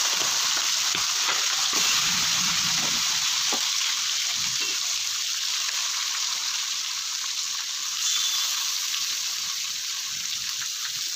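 Yogurt-marinated chicken pieces frying in hot oil in a kadai: a loud, steady sizzle that eases slightly towards the end, with a few soft low knocks in the first few seconds.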